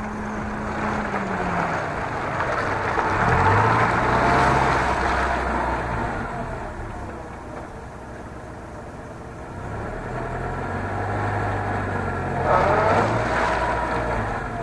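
Chevrolet Niva's engine pulling under varying throttle while driving off-road. Its pitch drops about a second in, then climbs into two louder surges, around three seconds in and again near the end.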